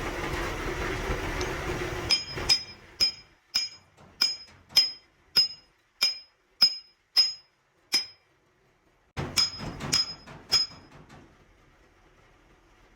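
Hammer striking steel, about a dozen evenly spaced blows, a little under two a second, each with a high ringing tone, then after a short pause a quicker cluster of four or five blows. A dense steady workshop noise fills the first two seconds before the hammering starts.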